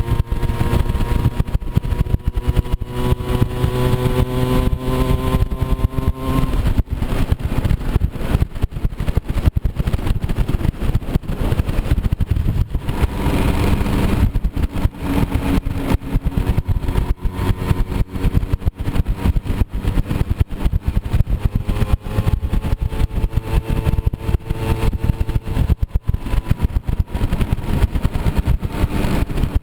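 Moped scooter engine running under way on a rough trail. Its pitch climbs slowly over the first six seconds, drops away, then comes back and rises and falls with the throttle, under heavy rough noise throughout.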